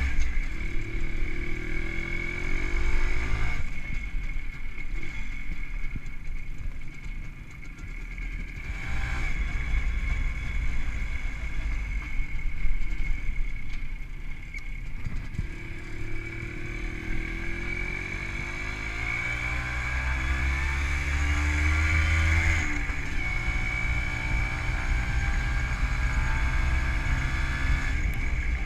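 WSK 125's single-cylinder two-stroke engine, fitted with a Dellorto PHBG carburettor and CDI ignition, pulling the motorcycle along. Its pitch climbs in the first few seconds, drops back, then rises again in a long pull that ends in a sudden gear change about three quarters of the way through, after which it runs steady. Wind rumbles on the microphone throughout.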